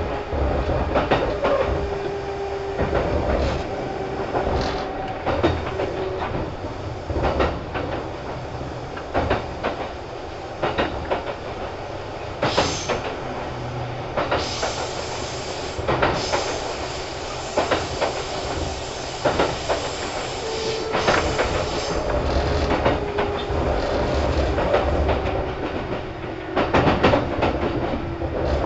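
Running sound heard inside a Kintetsu 2800 series electric train: wheels clacking over rail joints under a steady rumble with a faint motor hum. A stretch of louder high hiss comes about halfway through.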